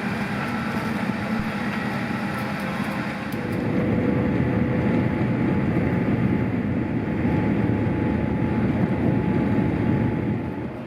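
Passenger airliner cabin noise: a steady rumble of engines and airflow that grows louder and heavier about four seconds in.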